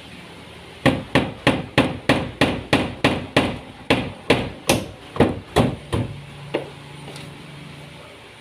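A hammer striking in a quick, even series of about sixteen blows, roughly three a second, that stop about six and a half seconds in.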